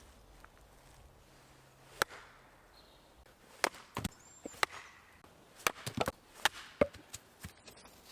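A knotty piece of firewood being split with a blade, about ten sharp chopping blows in wood. One lands about two seconds in and the rest come in an irregular run in the middle of the stretch.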